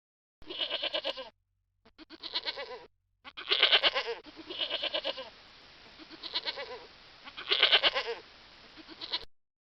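Farm livestock bleating: a series of about seven quavering calls, each under a second long, with short gaps between them.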